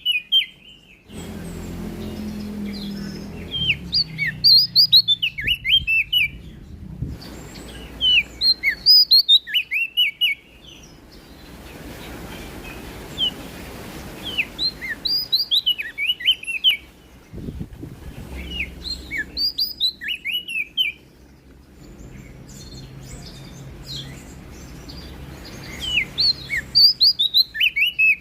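Prenjak daun (leaf warbler) singing: bursts of quick, sharp, high down-slurred notes lasting a couple of seconds each, repeated after short pauses, over a low background rumble.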